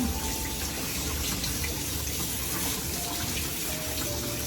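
Steady rush of noise like running water from a tap, with a few faint held musical notes over it.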